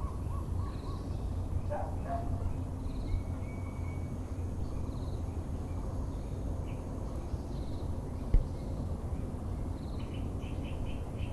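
Several birds calling over a steady low background rumble. One short high call repeats about every two seconds, a few lower notes come near the start, and a quick chattering series comes near the end. A single sharp knock sounds about eight seconds in.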